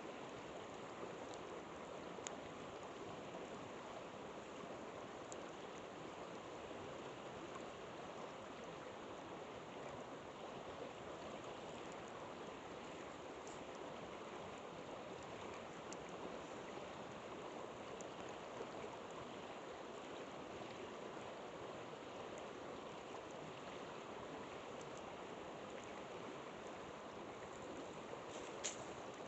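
A river flowing steadily, with a few faint pops from a campfire crackling over it and a slightly sharper pop near the end.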